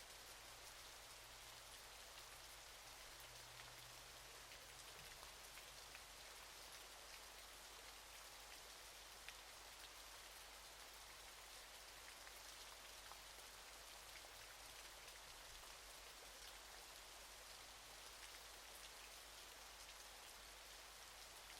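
Faint, steady hiss of falling water with fine droplet ticks throughout.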